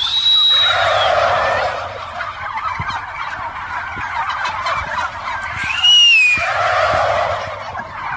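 Domestic fowl calling in two rounds about six seconds apart. Each round opens with a high arched note followed by a rapid rattling call, over a busy background of other bird calls.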